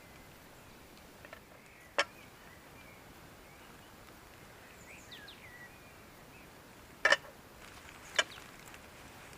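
Sharp, short clicks over a faint outdoor background: one about two seconds in, a quick pair about seven seconds in and another a second later, with a faint bird chirp in between.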